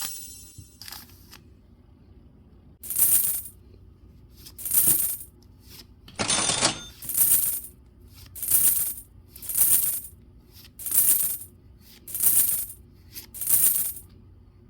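Pokémon trading cards being slid or flipped one after another, a short swish about every second, with one longer, stronger swish partway through.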